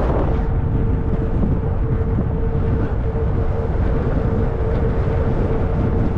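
Wind buffeting the microphone and a low rumble while riding a fat-tire e-bike. A thin, steady hum runs underneath, unchanging in pitch.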